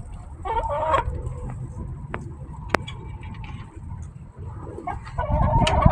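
Backyard hens clucking in their coop: a short call about half a second in and a longer run of clucks near the end, over a steady low rumble of gusting wind, with one sharp click near the middle.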